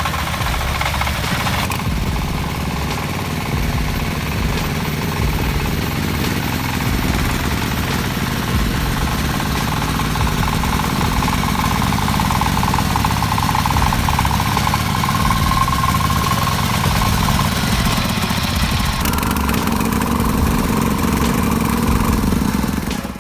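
Excavator's diesel engine running steadily as it tears into scrap rail cars.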